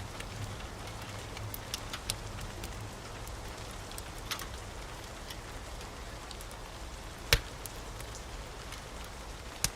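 Wood fire crackling with scattered sharp pops, the loudest about seven seconds in and another near the end, over a steady hiss of rain and a low rumble.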